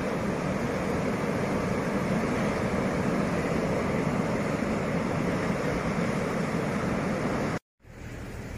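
Diesel locomotive-hauled train running, a loud steady rumble and rush. Near the end the sound cuts out abruptly for a moment and comes back quieter, with a low pulsing rumble.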